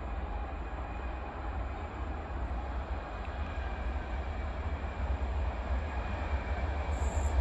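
Distant train approaching along the line, a low rumble that grows slowly louder, with wind buffeting the microphone. Faint high-pitched tones start near the end as it comes closer.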